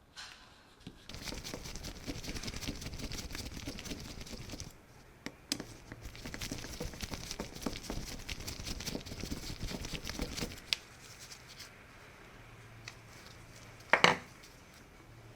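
Scratchy, crackling rubbing or scraping in two long stretches, then one sharp knock near the end.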